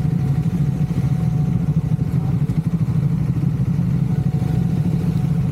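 Triumph Scrambler 400 X's single-cylinder engine running steadily, with no rise or fall in pitch.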